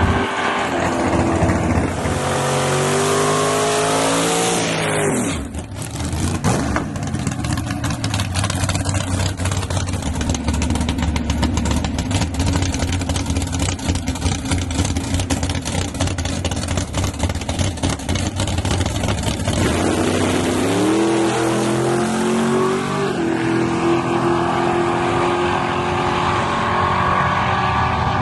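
Drag-racing truck engines at full throttle: the engine note climbs in pitch early on, runs rough and loud through the middle, then climbs again about twenty seconds in and holds a high, steady note.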